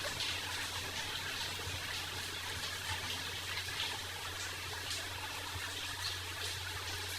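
Rain falling steadily, an even hiss with many scattered drips and small splashes, over a steady low hum.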